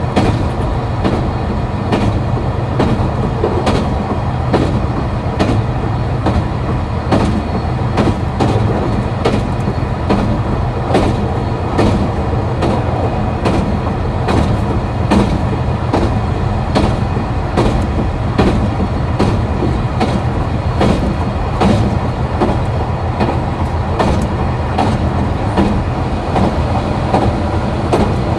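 KiHa 261 series diesel railcar's underfloor engine running steadily with the train under way, with the wheels clicking regularly over rail joints.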